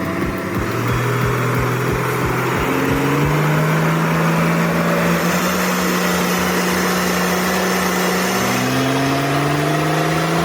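Six-cylinder turbo diesel engine of a heavy log truck revving hard under load, its pitch climbing and holding, then rising again near the end. A low regular pulsing from the engine is heard during the first second.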